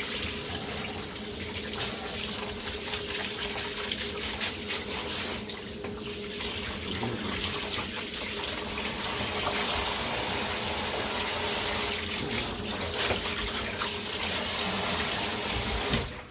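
Water running steadily from a tap into a bathing tub as a soaped dog is rinsed, shutting off just before the end.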